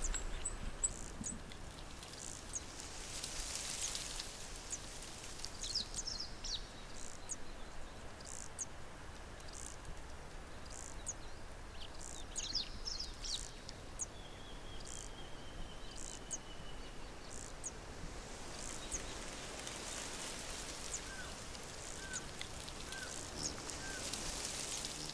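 Several wild birds chirping and calling over a faint steady outdoor background, with a long thin falling whistle midway and a run of four short, evenly spaced notes near the end.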